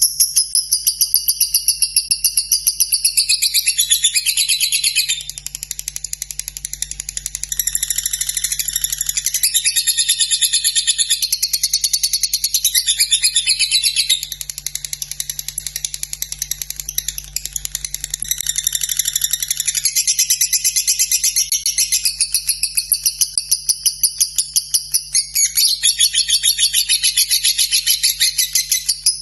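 Lovebird singing a long, unbroken ngekek: a high-pitched run of very fast ticking chirps that rises and falls in pitch, with a faint steady hum beneath it.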